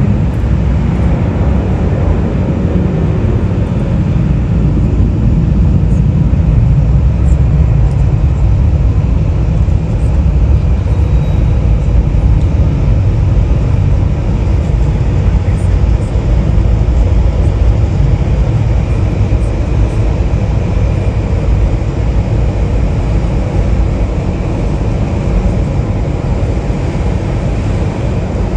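Jet airliner engines, a steady loud rumble that eases slightly near the end.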